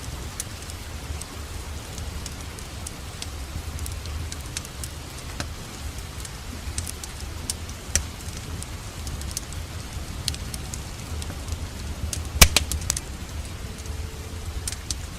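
Wood fire crackling with scattered sharp pops over a steady hiss of rain, with a loud burst of several pops about twelve seconds in.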